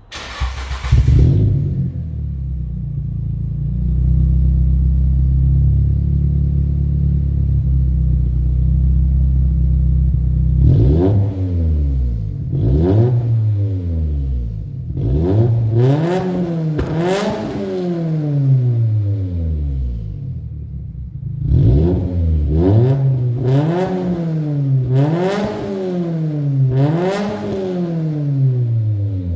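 Turbocharged SR20DET inline-four of a Nissan Silvia S15 Spec-R, with a Tomei turbo, HKS cams and an aftermarket titanium exhaust, comes on suddenly and idles steadily for about ten seconds. It is then free-revved in a series of quick blips, each rising and falling in pitch, with a rapid run of several in a row in the second half.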